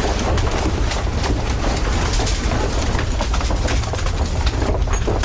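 A building shaking in a strong earthquake: a steady low rumble with continuous rattling and clicking of loose parts and fittings.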